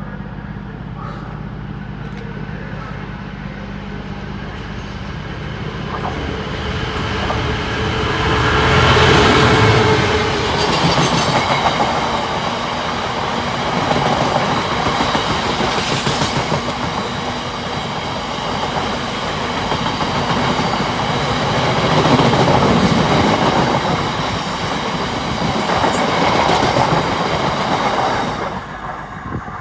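Locomotive-hauled train passing: the noise builds to a loud peak as the locomotive goes by, then wheels clatter over the rail joints as the coaches pass, with swells every few seconds. The sound drops off sharply near the end.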